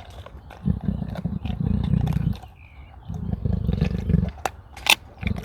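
A big cat calls twice, each a long, low, pulsing growl lasting a second or more, followed near the end by a few sharp clicks.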